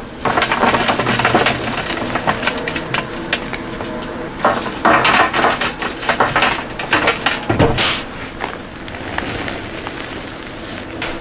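Chalk being crushed: dry crunching and crumbling in several irregular bursts, loudest about half a second in, around five seconds in and again near eight seconds.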